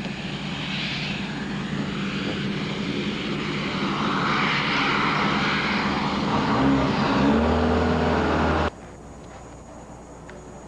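An engine running steadily and growing louder, with its pitch gliding up and down near the end, then cut off suddenly, leaving a much quieter background.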